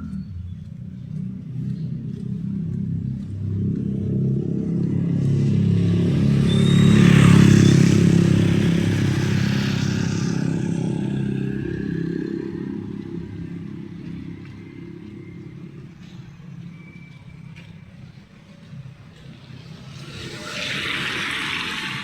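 A motor vehicle drives past close by, its engine drone and tyre hiss swelling to a peak about seven seconds in and then fading; a second vehicle comes up near the end.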